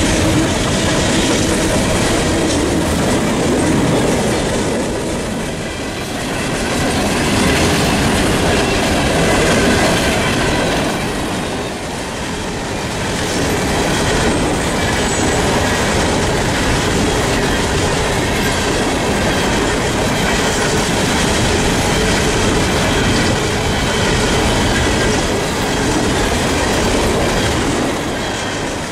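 Norfolk Southern freight train of coal hopper cars rolling steadily past, the steel wheels clattering and rumbling over the rail.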